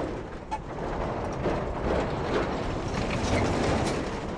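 Road train truck driving, a low engine rumble with scattered rattling and clicking.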